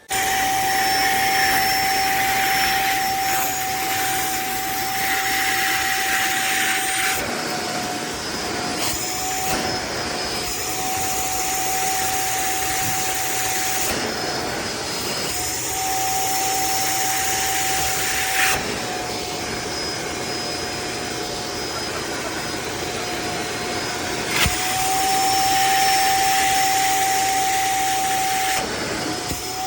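Cordless electric spin mop's twin motors running, spinning the mop pads over the floor. A steady whine over a hiss starts abruptly, and the whine dips briefly several times as the load changes.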